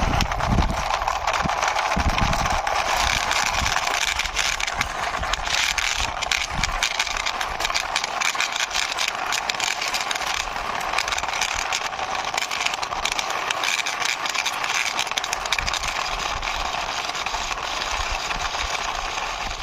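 Plastic toy fuel tanker's wheels rolling along a rough wall, a steady crackling rattle that runs throughout.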